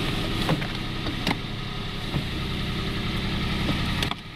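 Toyota-built 1.0-litre three-cylinder petrol engine of a Peugeot 107 idling shortly after a cold start, heard from inside the car. A little past halfway its low drone grows heavier and louder, then drops back suddenly near the end.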